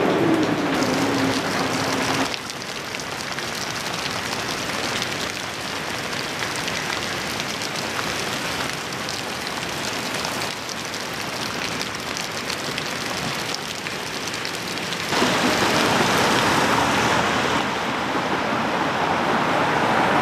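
Heavy rain and floodwater hissing evenly, in short clips that change abruptly about two, ten and fifteen seconds in. A low tone falls in pitch during the first two seconds. From about fifteen seconds the hiss grows louder and fuller: fast floodwater rushing in a swollen bayou.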